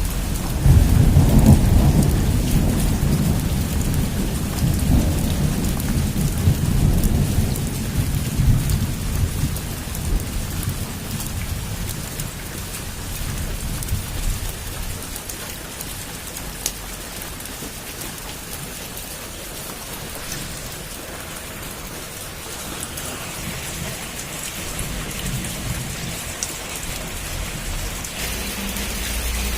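Heavy rain falling steadily, with a long rumble of thunder that swells about a second in and dies away over the next ten seconds or so.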